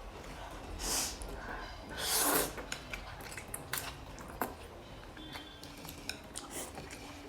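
Eating utensils clicking and clinking against a bowl of noodles, with two short breathy bursts about a second and two seconds in.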